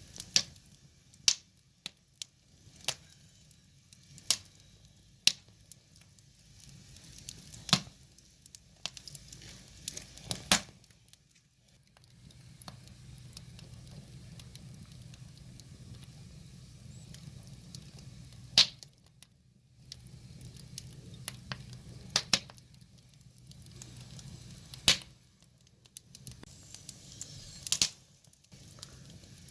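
Firewood burning, with sharp irregular crackles and pops every second or so over a faint low rumble of the flames.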